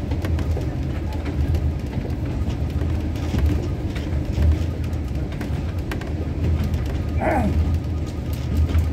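Passenger train running on its rails: a steady low rumble with frequent sharp clicks and rattles. About seven seconds in there is one short falling pitched sound.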